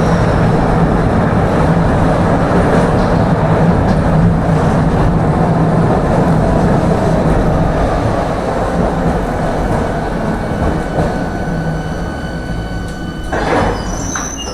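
Tram running along the track, heard from inside the car: a steady rumble of wheels on rails and traction motor hum, easing as the tram slows in the second half. Thin high whines come in near the end, with a short louder noise just before it ends.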